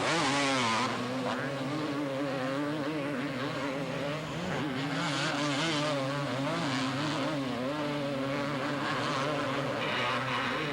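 Two-stroke motocross motorcycles racing, several engines revving up and down over and over as the bikes work through the track.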